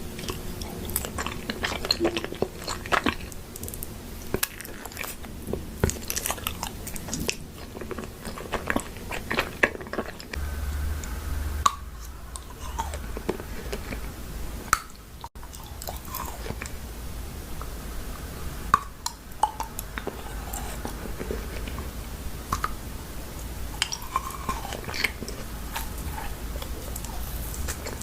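Close-miked eating: biting and chewing crunchy food, with many sharp crunches. A low steady hum comes in about a third of the way through, and there is a brief dropout about halfway.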